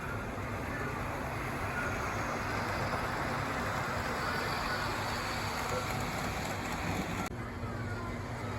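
G-scale model train running on the layout's track: a steady rolling rush over a constant low hum, a little louder in the middle and dropping abruptly near the end.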